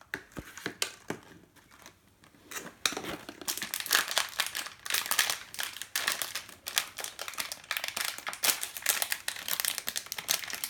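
Crinkling of a surprise-toy wrapper as it is handled and unwrapped: a few light clicks at first, then dense, continuous crinkling from about three seconds in.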